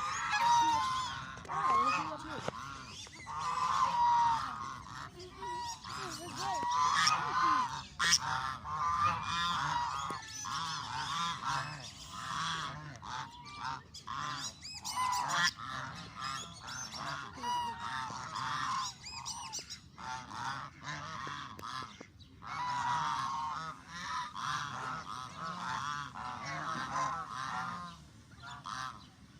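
A flock of Canada geese honking, many calls overlapping almost without a break, as the birds do when they are hungry.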